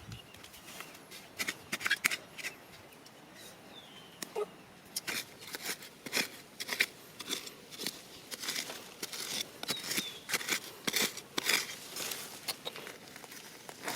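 Irregular sharp clicks and crackles of handling or snapping material, more frequent after about five seconds.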